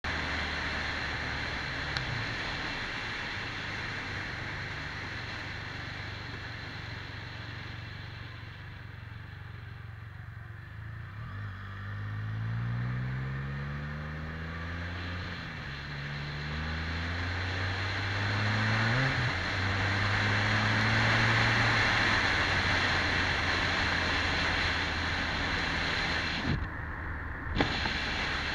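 Can-Am Spyder F3S three-wheeler's Rotax 1330 three-cylinder engine running on the road, with wind rushing over the microphone. About halfway through the engine pitch rises twice as it accelerates and shifts up, and the wind rush grows louder with speed. There are a couple of short knocks near the end.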